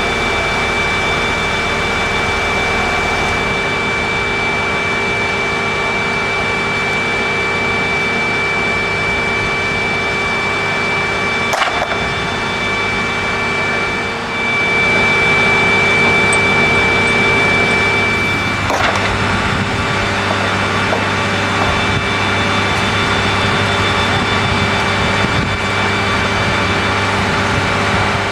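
Boeing 737-200 running on the ground: a steady high jet whine over a rushing noise, with a sharp click about twelve seconds in and the noise growing a little louder a few seconds later.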